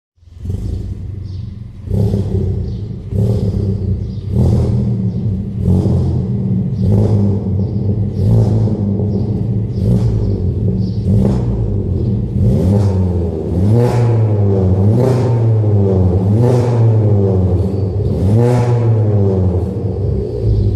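Seat Ibiza 1.2 TSI turbocharged four-cylinder engine with a full aftermarket exhaust, revved over and over in quick blips about once a second, each ending in a sharp crack, echoing in a tunnel. In the second half the engine note sweeps up and down with each rev.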